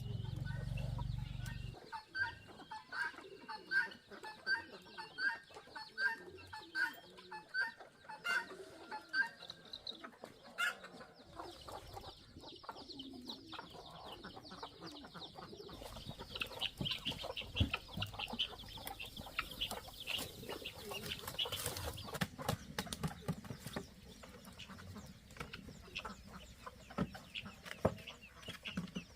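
Chickens clucking in a series of short repeated calls, with a denser run of higher calls in the middle. A low rumble stops about two seconds in.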